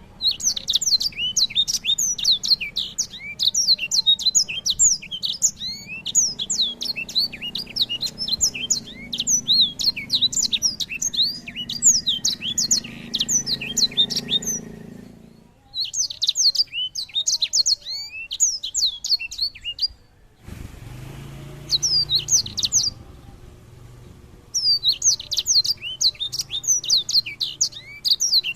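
A small songbird singing a fast, continuous song of rapid high chirps and trills, in several long bouts that break off abruptly, over a faint low hum.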